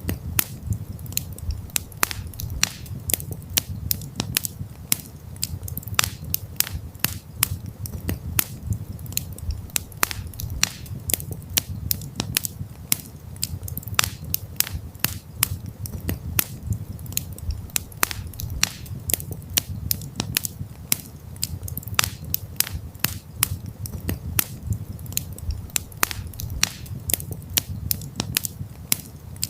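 Campfire crackling and popping: dense, irregular sharp snaps of burning wood over a steady low rumble of the flames.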